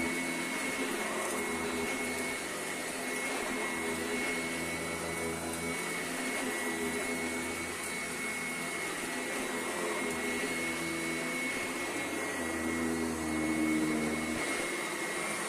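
Sanitaire SC881 vacuum cleaner running steadily with a constant high whine. A lower hum under it swells and fades every few seconds.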